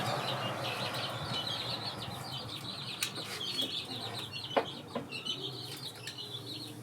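Small birds chirping in a continuous rapid high twitter, with a few sharp clicks about halfway through, under a steady low hum.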